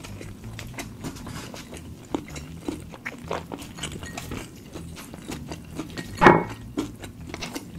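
Close-miked chewing with the mouth closed: a string of small wet clicks and smacks, with one louder mouth noise about six seconds in.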